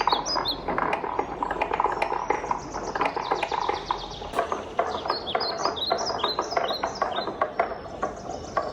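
Wooden balls rolling along a wooden marble run: a steady rolling sound with many quick, bright clacks as the balls knock against the track and each other.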